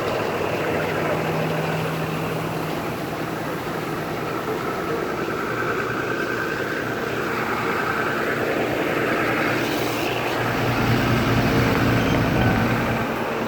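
A motor vehicle's engine running steadily, getting a little louder and lower about ten seconds in.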